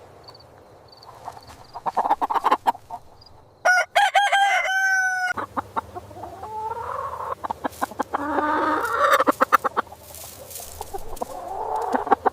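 Chickens clucking, with one rooster crow of about a second and a half just under four seconds in.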